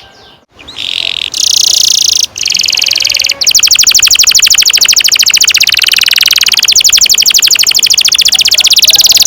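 Domestic canary singing long rolling trills. After a short break near the start comes a buzzy trill, then, from about three and a half seconds in, a long, fast, even roll of rapidly repeated high notes.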